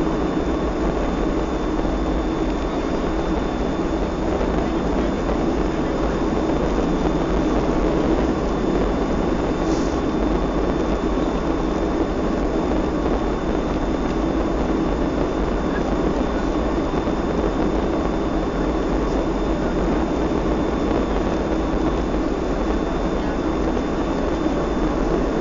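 Cabin noise inside a Boeing 757-224 airliner: a steady rush of air and jet engine sound with a constant low hum, even in level throughout.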